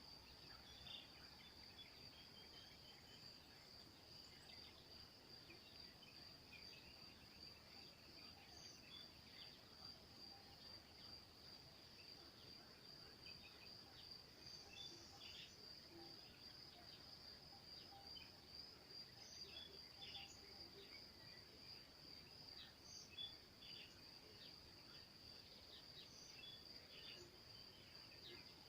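Faint forest ambience: a steady high-pitched insect chorus throughout, with many short, scattered bird chirps.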